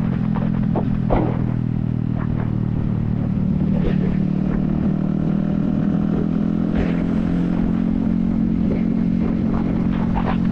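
Yamaha XSR155's 155 cc single-cylinder engine running steadily under way, heard from a helmet-mounted camera, picking up slightly about three seconds in. Scattered short clicks and knocks sound over it.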